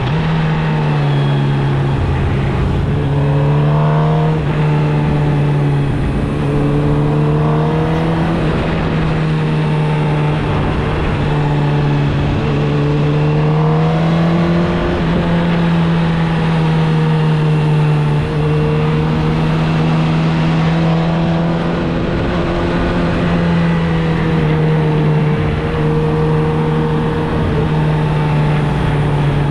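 2016 Suzuki GSX-R1000's inline-four engine through its stock exhaust, running at fairly steady revs under way. Its pitch rises and falls gently several times as the throttle changes.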